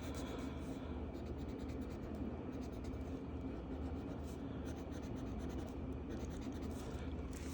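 Marker tip rubbing back and forth on paper while coloring in a page, a steady run of scratchy strokes.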